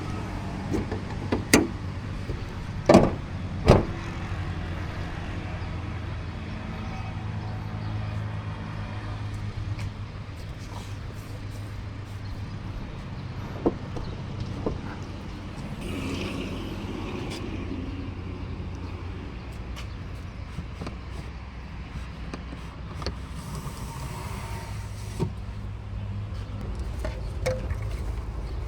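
A car's steady low rumble, with a few sharp knocks or clicks in the first four seconds and fainter clicks later.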